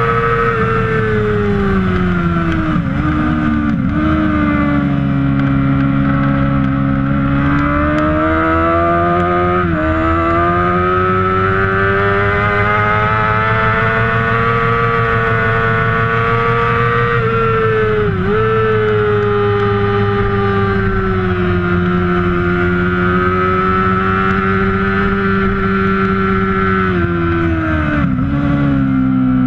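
Kawasaki Ninja ZX-6R's 600cc inline-four racing engine at high revs under racing load. Its pitch falls a few seconds in, climbs for several seconds, and breaks sharply at gear changes about ten and eighteen seconds in, then eases down, with another quick change near the end.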